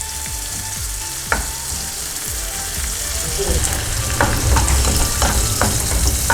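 Sliced carrots, green chillies, ginger and garlic sizzling in hot oil while being stirred and sautéed, with the spatula clicking and scraping against the pan a few times, more often in the second half.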